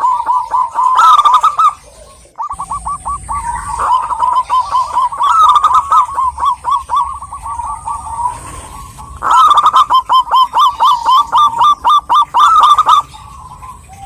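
Zebra doves (perkutut) cooing in rapid runs of short, repeated notes. The runs pause briefly about two seconds in, again around nine seconds, and near the end.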